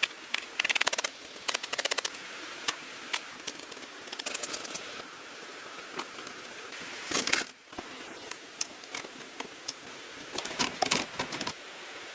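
Runs of rapid, sharp clicks and crackles, with a louder rasping burst about seven seconds in, over a steady hiss.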